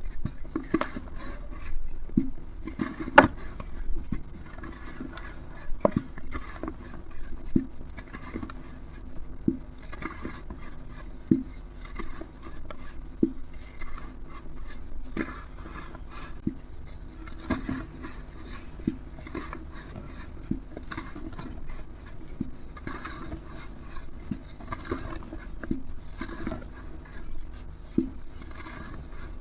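A brittle material crumbling and crunching: irregular small cracks and crackles, several a second, with a few sharper snaps among them.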